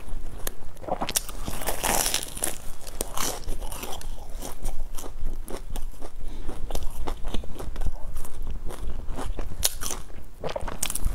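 Close-miked eating of a crusty sesame-topped bun: bites into the crisp crust and chewing, heard as a steady run of small crunches and mouth clicks.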